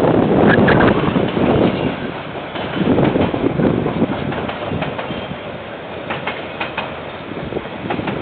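A KiwiRail train passing, its steady running noise broken by groups of wheel clicks over the rail joints about every three seconds. Heard through a security camera's microphone, which dulls the highs.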